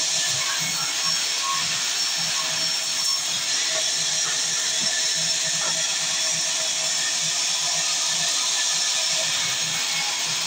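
Sawmill saw running steadily, a continuous mechanical whine over noise with no breaks.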